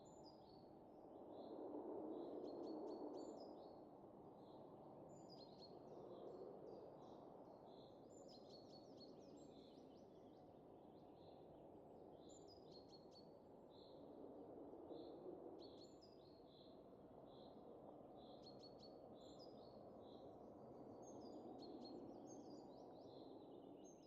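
Faint winter wind, a soft low rush that swells gently in a few slow gusts, with small birds chirping over it in quick, high, repeated calls.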